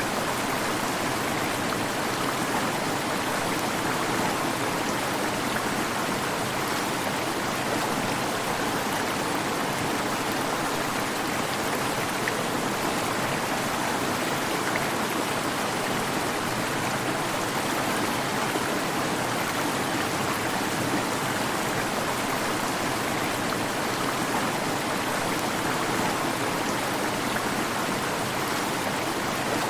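Waterfall: water rushing and splashing in a steady, unbroken roar with no change in level.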